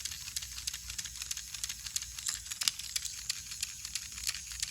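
Battery-powered Tomy Hiro toy train engine running: its small motor hums faintly under a little clicking sound, a rapid, uneven run of clicks from the drive.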